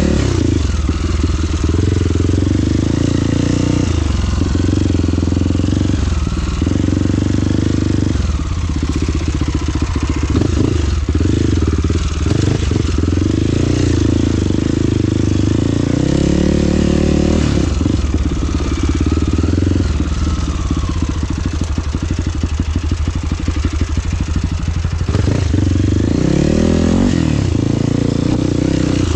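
Trail motorcycle engine running under way, its pitch rising and falling over and over as the throttle is worked.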